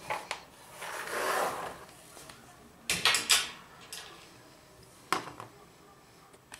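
Bolts being undone on the washing machine's body: a scraping rub about a second in, then a cluster of sharp metallic knocks around three seconds in and one more a couple of seconds later.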